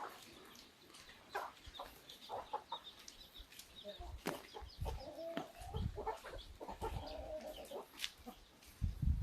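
Chickens clucking, a run of short calls from about four seconds in, over scattered sharp taps.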